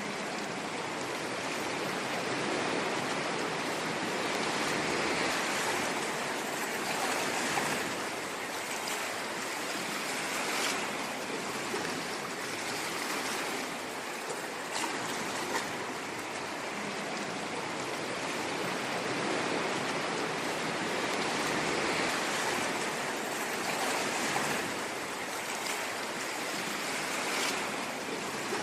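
Ocean waves washing on a shore: a continuous rush of surf that swells and eases every few seconds, with a few brief crackling splashes.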